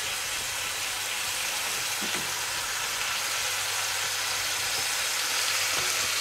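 Mushrooms sizzling steadily in a cast-iron Dutch oven with a little meat broth, being stirred with a wooden spoon.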